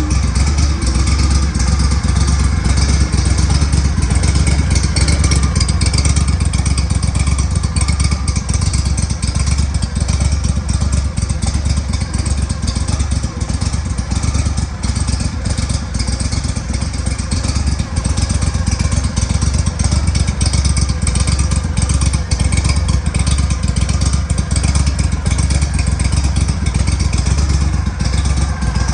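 Pro-Drive surface-drive mud motor's engine running steadily, its exhaust leaks freshly fixed.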